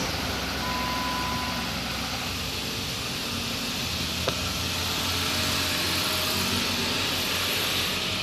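Freshly rebuilt car engine idling steadily just after its first start, running dry of coolant with no drive belts fitted. A single sharp click about four seconds in.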